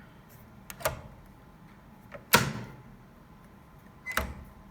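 Mechanical clunks from an old railway block instrument's big rotary knob and plunger being worked: two light clicks a little under a second in, a louder clunk with a short ring just past halfway, and another clunk near the end.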